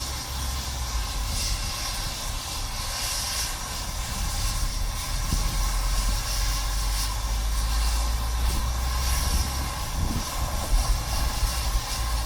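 A 1925 steam locomotive and its train running: a steady low rumble with a rushing noise that swells every second or two.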